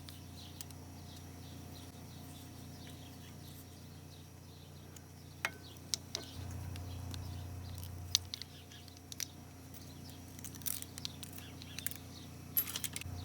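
Scattered light clicks and taps of small metal parts and tools being handled as the piston rings and wrist-pin clip are worked off a small lawnmower-engine piston, over a low steady hum, with birds chirping faintly.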